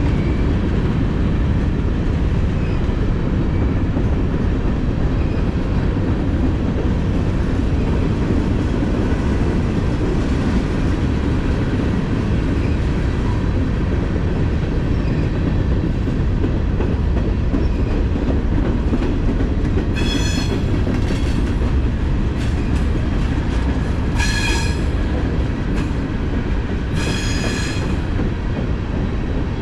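Freight train cars rolling past with a steady heavy rumble. Three brief high-pitched wheel squeals come through in the last third.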